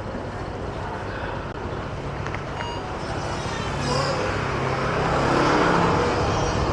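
Motor scooter riding in city traffic: a steady low engine hum under heavy wind buffeting on the microphone, with the traffic noise swelling louder about four seconds in.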